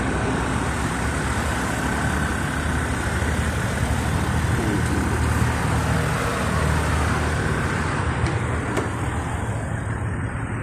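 Steady low rumble of a motor vehicle running, with a faint steady high whine over it.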